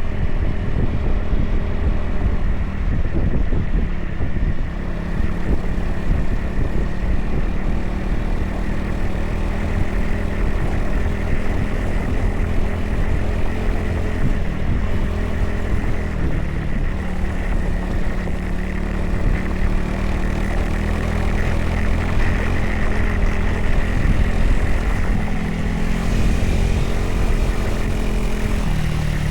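Dual-sport motorcycle's single-cylinder engine running steadily under way at speed, its note shifting a little near the end.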